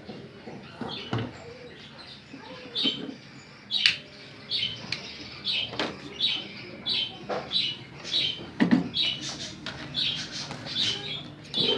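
Caged budgerigars chirping in short, repeated high calls, with a few sharp knocks in between.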